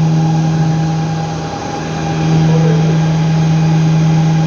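A loud, steady machine hum with one strong constant low tone and a fainter higher one, easing off briefly about a second and a half in.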